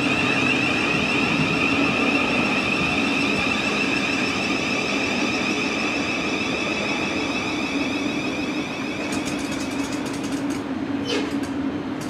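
Thameslink Class 700 electric train pulling out of the station, with a steady high whine from its traction equipment over the rumble of wheels on rail. Near the end comes a run of sharp clicks as it moves away.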